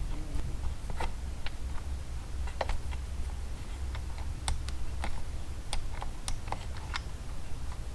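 Irregular light clicks and taps of small plastic and metal chainsaw parts being handled and fitted while the carburetor and choke are put back on, over a steady low hum.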